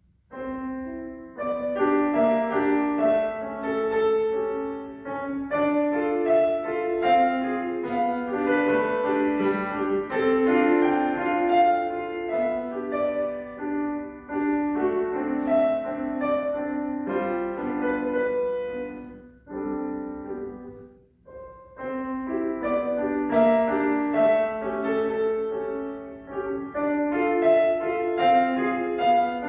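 Solo piano playing a classical student exam piece, starting about half a second in after silence, with a short break around two-thirds of the way through before the playing resumes.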